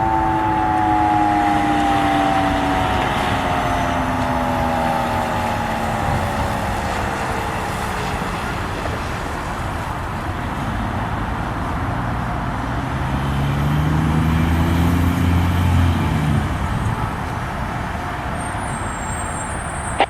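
Emergency vehicle siren winding down, its pitch falling slowly over about nine seconds, over steady road and traffic noise. Later a heavy truck engine revs up, rising in pitch for a few seconds.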